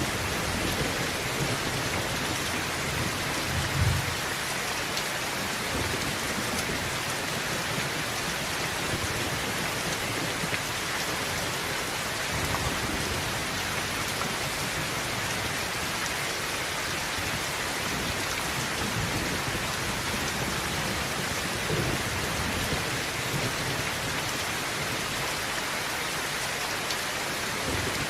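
Heavy rain drumming steadily on a tin roof, with a brief low rumble of thunder about four seconds in.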